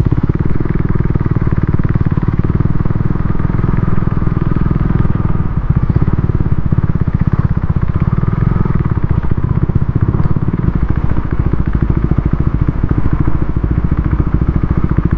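KTM Duke 390's single-cylinder engine running steadily under the rider, a fast even pulse of firing strokes, while the bike is ridden slowly over rough ground.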